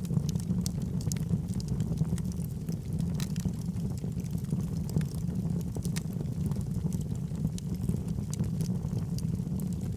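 Log fire burning in a fireplace: a steady low rumble of flames with frequent small crackles and pops from the burning wood.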